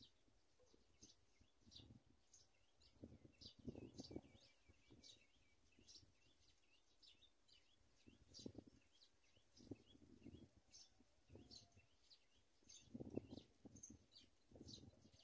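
Bird chirping: many short, high chirps, several a second, throughout. Soft low rustling or bumping comes and goes, loudest about four seconds in and again near the end.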